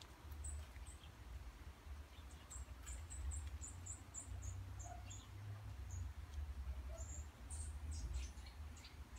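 A small bird chirping: a run of short, high-pitched chirps, about three or four a second and thickest between about two and five seconds in, over a low steady rumble.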